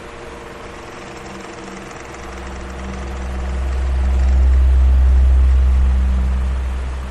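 Electric fan running with a steady hum and a few held tones. About two seconds in, a deep low rumble swells up, peaks in the middle and fades again near the end.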